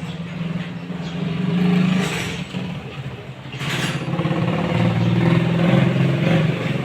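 Bajaj CT150's single-cylinder four-stroke engine running after an overhaul, its speed rising and falling as it is revved. There is a short burst of noise just before the midpoint.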